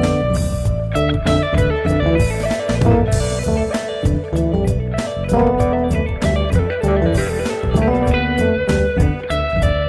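A band playing a blues-rock piece: electric guitar notes over bass and a drum kit keeping a steady beat.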